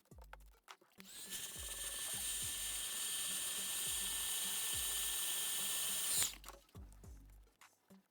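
A small high-speed electric tool whines steadily for about five seconds, rising in pitch as it starts and cutting off suddenly, over background music with a steady beat.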